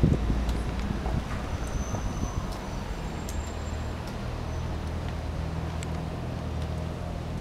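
Street traffic: a motor vehicle's engine running steadily, a low hum that settles in about halfway through.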